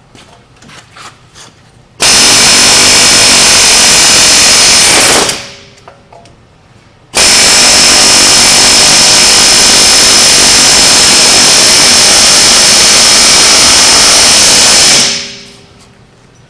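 Power tool run hard in two long bursts, about three seconds and then about eight seconds, working on a seized wheel hub.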